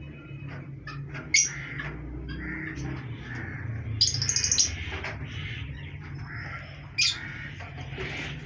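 Pet parrots squawking and chattering: a sharp loud call about a second and a half in, a quick run of shrill calls around four seconds in, another sharp call about seven seconds in, and softer chirps between them.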